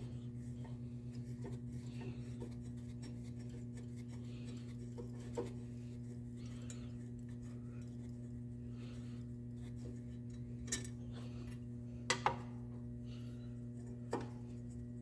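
A steady low electrical hum, with a few light clicks and clinks of small objects being handled, two of them close together about twelve seconds in.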